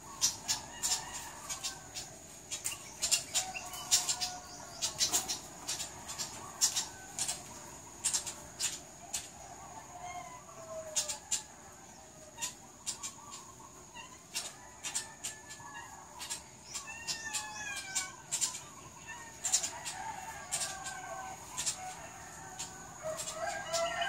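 Birds calling repeatedly with short falling calls, mixed with frequent sharp clicks, over a steady high-pitched tone.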